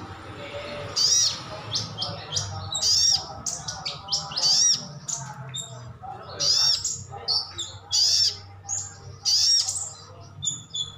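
Sogon sunbird calling: short bursts of sharp, high chirps that repeat about every second, each burst a quick run of arching notes.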